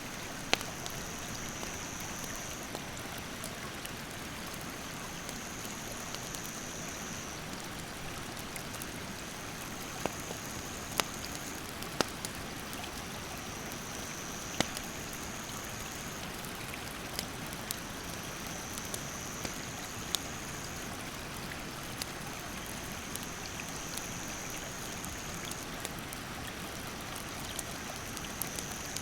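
Steady rush of a rocky stream's rapids, with sharp pops from a burning wood campfire every few seconds. An insect's high, steady buzzing call repeats every few seconds, each lasting about two to three seconds.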